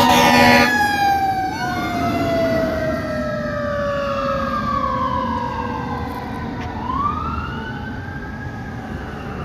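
Fire truck's Whelen 295 electronic siren running a wail, its pitch sweeping slowly up and down and gradually fading. A horn blast cuts off under a second in.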